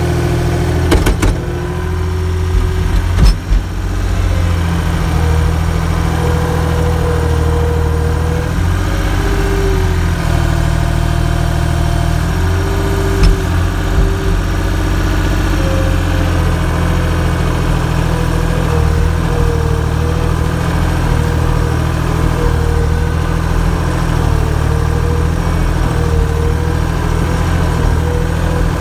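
An engine running steadily, with a few sharp knocks about one and three seconds in and another about thirteen seconds in.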